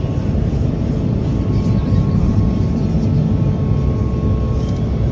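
SEPTA trolley car running: a steady low rumble with a faint constant hum.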